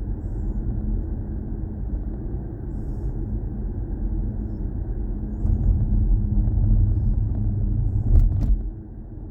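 Low road and tyre rumble inside the cabin of a moving BMW i4 M50, an electric car with no engine note. It grows louder about halfway through, with a couple of sharp clicks near the end, then drops off suddenly.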